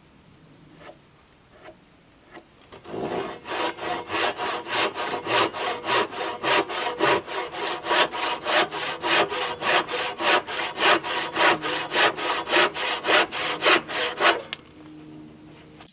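Hand saw cutting through a wooden board in fast, even back-and-forth strokes, about two and a half a second, for some eleven seconds, then stopping. A couple of light knocks come before the sawing starts.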